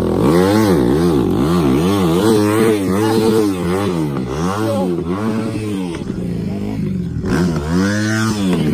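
Dirt bike engine revved up and down in quick blips, about twice a second, then a longer rev near the end, as the rider tries to power the bike out of deep sand it is stuck in.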